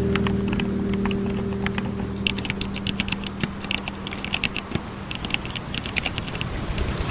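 Keyboard typing: quick, irregular key clicks that grow busier after about two seconds, over a low steady hum that fades out about three seconds in.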